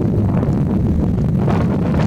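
Strong gusty wind buffeting the microphone: a loud, steady low rumble.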